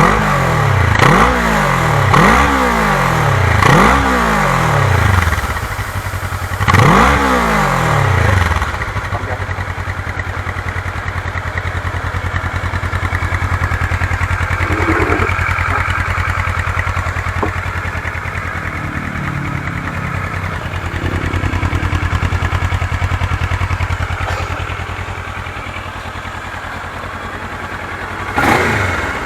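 Kawasaki ER-6's parallel-twin engine through an aftermarket full-system exhaust with an Akrapovic tailpipe. It is blipped in about five quick revs over the first eight seconds, then settles to a steady idle, with one more short rev near the end.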